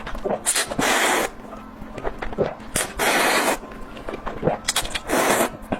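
Close-miked mouth eating sounds: many short wet clicks of chewing and lip smacking, with three loud half-second hissing slurps about two seconds apart.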